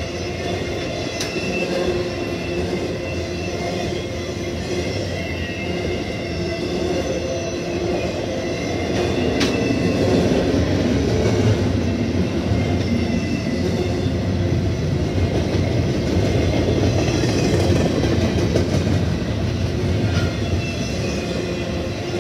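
Long intermodal freight train rolling steadily past: a continuous rumble of steel wheels on rail that grows a little louder about halfway through, with thin squealing tones above it and a few sharp clanks.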